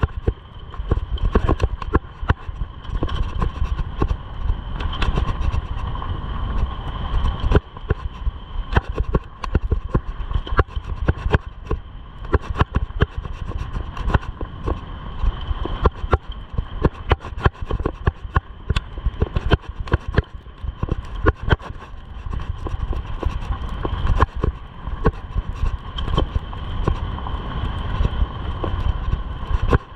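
Mountain bike riding over a rough dirt trail: a constant rattle of quick knocks and clicks from the bike and its mount, over a low rumble of wind on the microphone.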